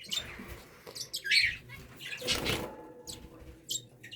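Young English budgerigars chirping briefly, with a flutter of wings; the loudest moment is a rustling flap about two and a half seconds in.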